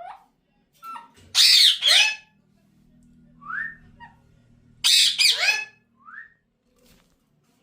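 Pet parrot calling: two loud pairs of harsh squawks, each pair followed by a short rising whistle.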